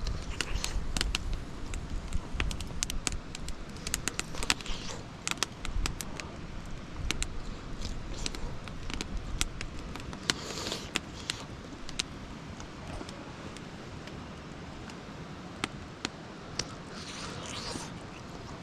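Scattered sharp crackles and clicks, with low wind rumble on the microphone during the first few seconds and two brief rustles, about ten and seventeen seconds in.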